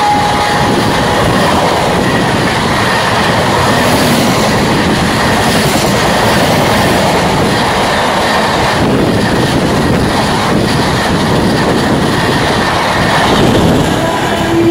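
Passenger express train's coaches passing at speed close by: a loud, steady rush of steel wheels on the rails.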